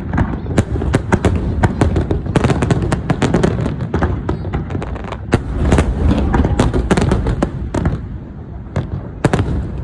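Fireworks going off in rapid succession: many sharp bangs and crackles over a continuous low rumble, thinning briefly near the end.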